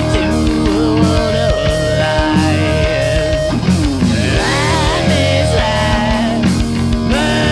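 A punk/alternative rock band playing live: electric guitar with sliding, bending notes over bass and drums, at a steady loud level.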